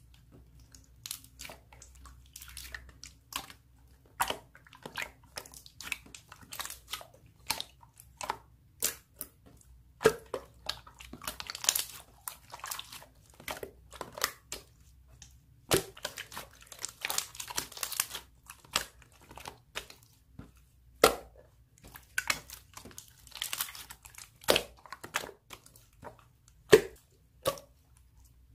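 Slime being handled and squished, giving irregular crackling and popping sounds with a few louder snaps.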